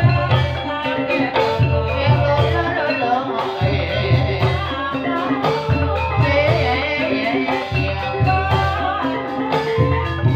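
Live ebeg music in dangdut 'kreasi' style: a band of instruments with a steady low beat and a singer's wavering voice over it.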